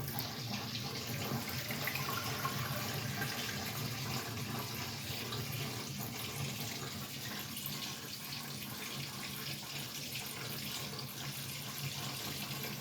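Water draining out of a Kuppet twin tub portable washing machine's wash tub, a steady running flow over a low hum.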